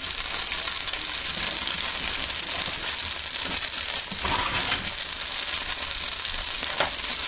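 Potstickers frying in hot oil in a nonstick skillet, a steady sizzle at the browning stage, with a couple of light clicks about four and seven seconds in.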